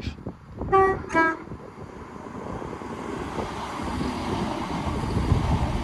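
ScotRail Class 170 Turbostar diesel multiple unit sounding two short horn blasts about a second in, then the rumble of the train running in on the rails, growing louder to a peak near the end.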